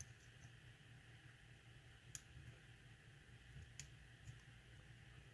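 Near silence with a few faint, sharp clicks, about three spread over the seconds, of a lock pick working the pins inside a pin-tumbler lock.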